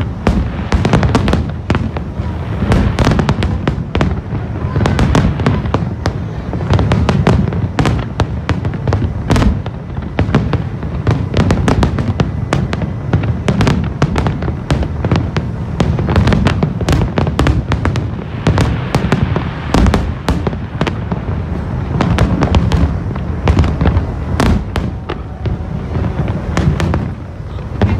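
A large aerial fireworks display going off nonstop: shells bursting in rapid, overlapping bangs and crackles, many a second, over deep low bangs.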